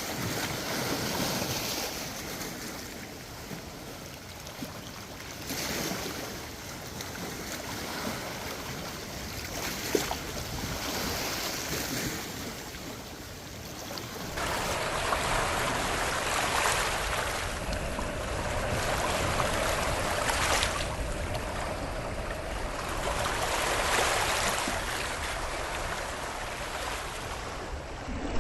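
Small waves washing against a lakeshore, with wind: the wash swells and ebbs every few seconds and grows louder about halfway through.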